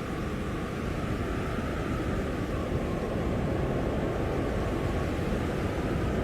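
Blizzard wind blowing steadily, a dense rushing noise with a heavy low rumble.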